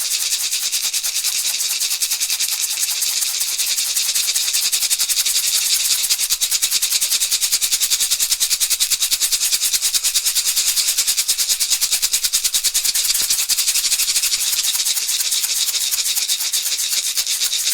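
Shamanic rattle shaken in a fast, steady rhythm, a dense, bright shaking with no pauses.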